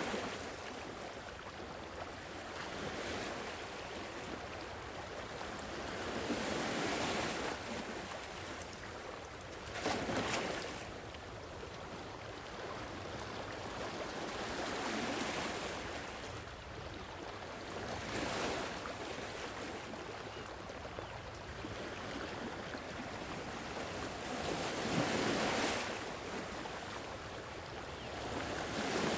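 Sea waves washing onto a shore: a steady wash of surf that swells as a wave breaks every few seconds, about seven times.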